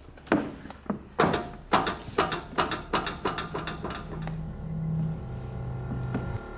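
A quick run of sharp knocks or taps, about three a second, followed by a steady droning hum of several tones that drops in pitch about five seconds in and cuts off suddenly. The knocks are the loudest part.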